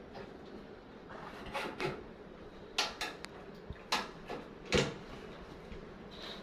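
A series of irregular knocks and clacks, as of hard parts or tools being handled and set down, loudest about three quarters of the way through, over a faint steady hum.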